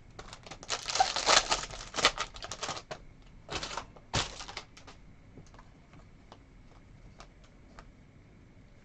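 Trading cards being handled and flicked through: a dense run of quick scratchy clicks as the cards slide and snap against each other, two stronger swishes about three and four seconds in, then only a few faint ticks.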